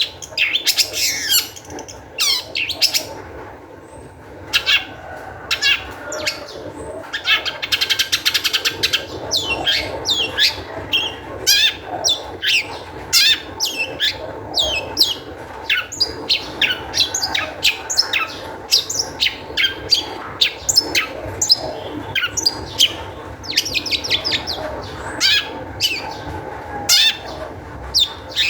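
Long-tailed shrike singing in an excited, agitated stream: quick sharp falling notes and harsh chatter, one after another, with a buzzy rattle about eight seconds in.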